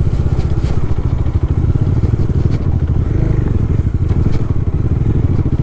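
Bajaj Dominar's single-cylinder engine running at low revs in first gear over a rough dirt trail, with a few brief knocks and rattles.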